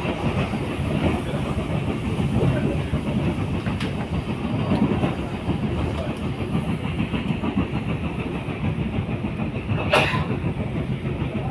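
Local train running along the line, heard from on board: a steady rumble of wheels on rails with rail clatter. About ten seconds in there is one brief, sharper burst of noise.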